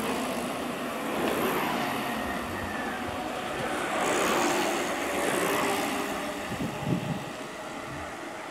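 Motorcycles passing on a road, their engine noise swelling about a second in and again around four to five seconds in, then easing off.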